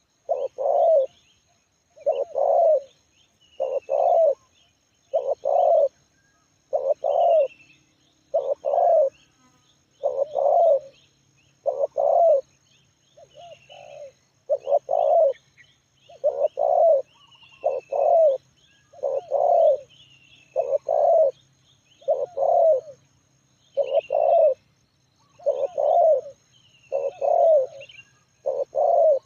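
Spotted dove (tekukur) cooing, its short song phrase repeated steadily about every one and a half seconds. Faint chirps of small birds sound between the phrases.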